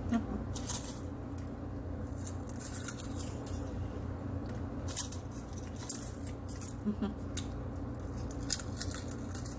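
Crunching and chewing crisp baked kale chips close to the microphone: irregular sharp crackles scattered through the bites.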